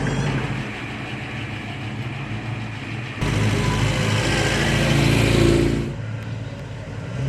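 Car engines running; about three seconds in a louder engine comes in and rises in pitch as it revs, then fades away about six seconds in.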